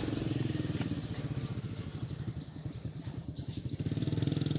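Small engine of a two-wheel walking tractor running with a fast, even chugging beat, dipping slightly in the middle and growing louder near the end.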